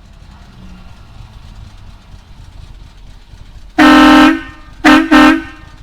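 Air horn on a 1952 International cab-over hauler truck blasting three times: one long blast followed by two short ones in quick succession, over a low steady rumble.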